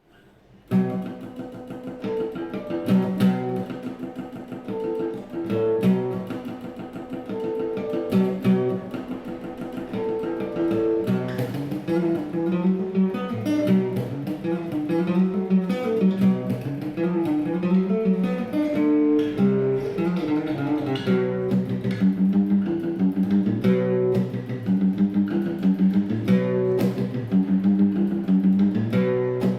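Guitar music: plucked notes in a melody that moves step by step, starting just under a second in.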